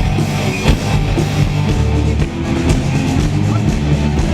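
Live rock band playing an instrumental passage between sung lines: electric guitars, bass and drum kit.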